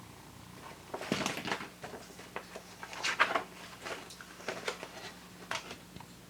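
A paper calendar being handled and passed over, with rustling and crinkling in several short clusters, the loudest about a second in and around three seconds in.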